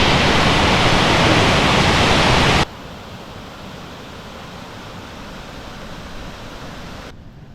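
Steady rush of a waterfall running full after heavy rain, loud and even, which cuts off abruptly about two and a half seconds in to a much fainter rushing of water.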